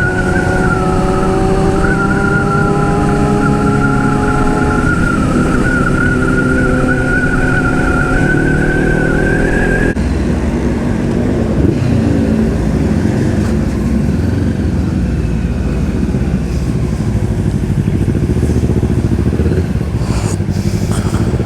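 Motorcycle engines running on the move, their pitch rising and falling with the throttle over steady road and wind noise. The sound changes abruptly about ten seconds in, then becomes a rougher engine-and-wind mix.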